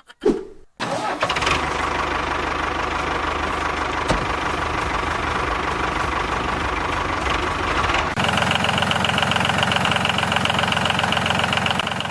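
Tractor engine starting with a short burst, then running steadily at idle with an even low chug; its tone changes about eight seconds in.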